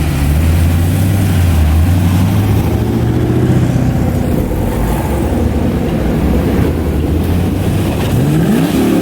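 2018 Camaro ZL1 1LE's supercharged V8 running at a steady idle, then blipped once near the end, the pitch rising quickly and falling back.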